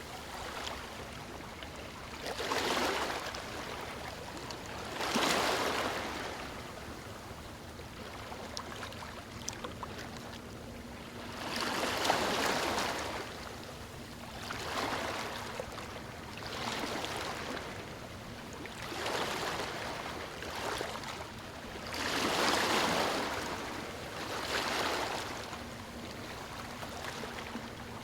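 Waves breaking onto stones: a continuous wash of water that swells into a rush every few seconds, then drains back. There is a longer lull of quieter washing partway through.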